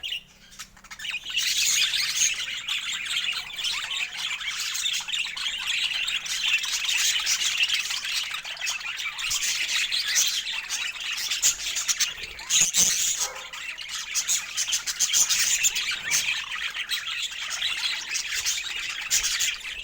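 Budgerigars chattering steadily, with quick overlapping chirps, warbles and occasional squawks. It starts after a brief lull at the very beginning.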